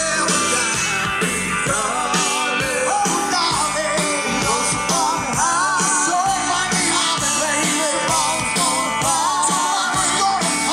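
Live band playing a rock-and-roll style song through a loudspeaker system, a singer holding wavering notes over a steady beat.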